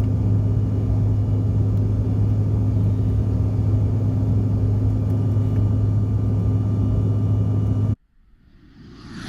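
Steady drone of a CRJ700 airliner cabin in flight: the rear-mounted jet engines and airflow make a constant low hum with a few steady tones. About eight seconds in it cuts off abruptly, and a whoosh swells up near the end.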